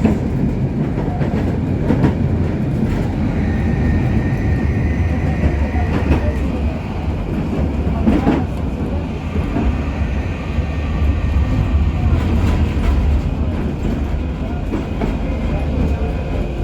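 KTM-23 (71-623) low-floor tram running between stops, heard from inside the car: a steady rumble of wheels on rail with occasional knocks over rail joints, and a faint high whine for a few seconds early on.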